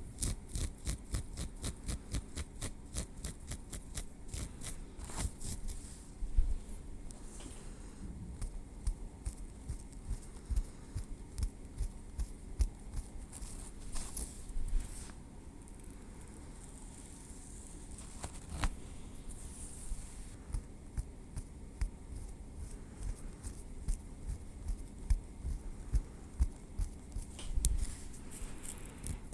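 Tweezers clicking and scraping through hair and against the scalp: a long run of quick, fine clicks with a few sharper ticks, easing off for a few seconds about halfway through before picking up again.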